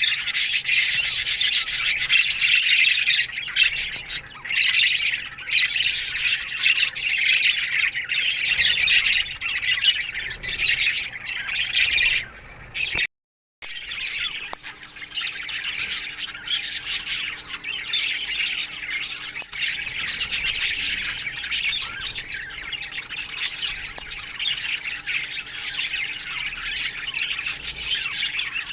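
A flock of budgerigars chattering, chirping and squawking continuously in an aviary, with many birds calling over one another. The sound cuts out for about half a second near the middle, then the chatter resumes.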